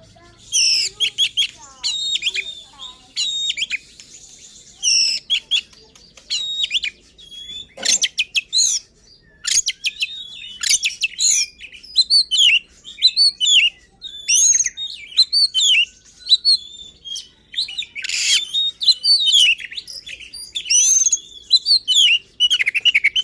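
Oriental magpie-robin (kacer) singing hard and fast: rapid runs of varied whistled and chattering phrases with short pauses between bursts, mixed with harsh rasping notes, twice standing out about 8 and 18 seconds in. This is the bird's excited, aggressive full song, in which it pours out the calls of other birds it has learned to mimic.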